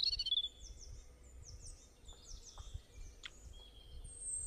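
Small birds chirping faintly: a run of short, quick calls that sweep downward in pitch, loudest right at the start, over a faint low rumble.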